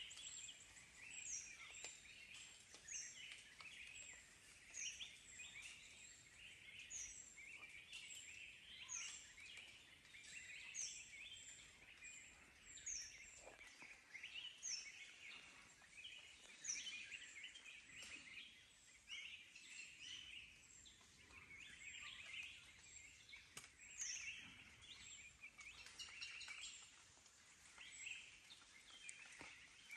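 Forest birds calling faintly, several at once: a high, thin falling note repeated about once a second over a busy layer of chirps.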